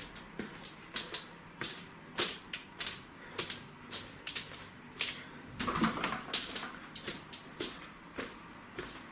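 Old laminate floorboards clicking and crackling: a string of sharp, irregular clicks, about two or three a second, with a louder rustling scrape about six seconds in.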